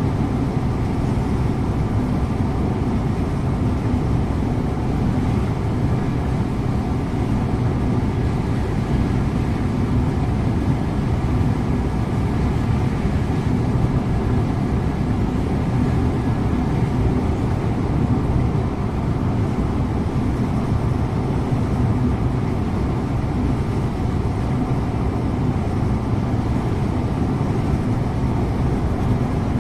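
Scania InterLink bus driving at a steady pace: an even engine drone mixed with road and tyre noise.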